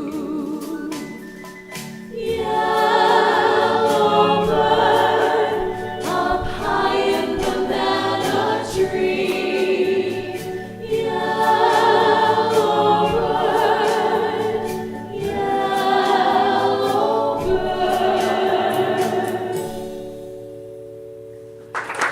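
Voices singing long, wordless held phrases with vibrato, the closing bars of a song; a last held note fades near the end.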